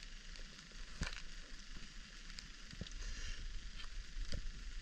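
Rain falling with a steady hiss, with scattered small taps and one sharper click about a second in.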